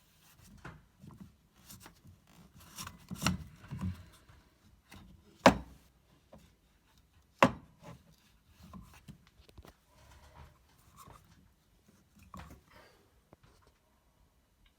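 Scattered small handling noises with a few knocks, two of them sharp and loud about two seconds apart near the middle.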